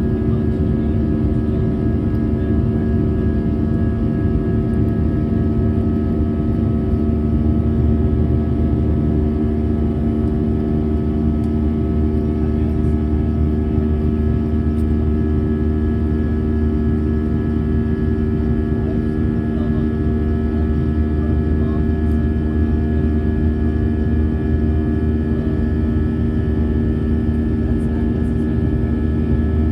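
Airbus A320 cabin noise in flight: the steady drone of the jet engines and airflow, with a strong low hum and several steady tones that do not change.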